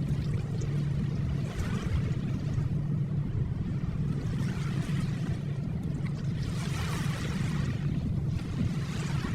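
Ocean waves: a steady low rumble of surf with waves washing in and drawing back, swelling twice, near the start and about two-thirds of the way through.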